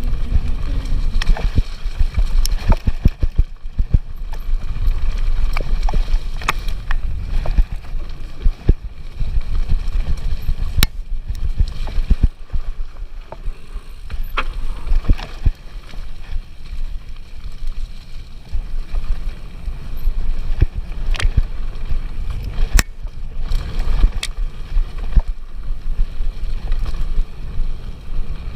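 Action-camera sound of an enduro mountain bike riding down a forest trail: a steady low rumble of wind and tyres on the microphone, with many sharp knocks and rattles from the bike over bumps.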